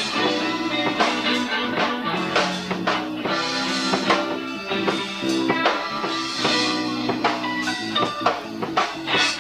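Live rock band playing an instrumental stretch: guitar over bass guitar and a drum kit keeping a steady beat.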